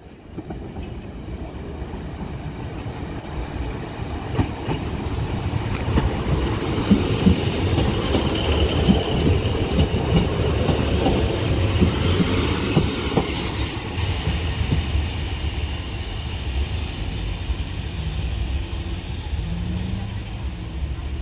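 A diesel multiple-unit passenger train runs past close by and grows louder over the first several seconds. Its wheels click over the rail joints in a run of sharp knocks as it passes, with some wheel squeal.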